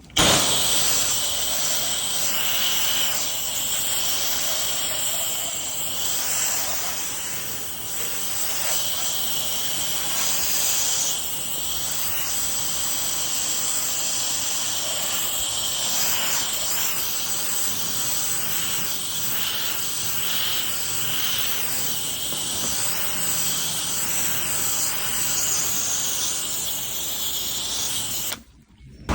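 Pressure washer spray hissing steadily against a composite deck, with brief dips about eight and eleven seconds in, cutting off abruptly near the end.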